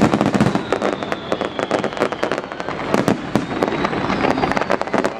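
Fireworks going off in a rapid, unbroken barrage of bangs and crackles, with a thin high whistle running through at times.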